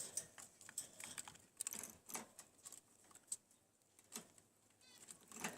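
Budgerigars in the nest: faint, irregular clicking and scratching of beaks and claws, with a short squeaky chick call near the end.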